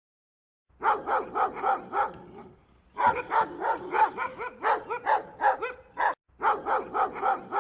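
Dog barking rapidly in quick runs of about four to five barks a second, with a short break in the middle and another near the end.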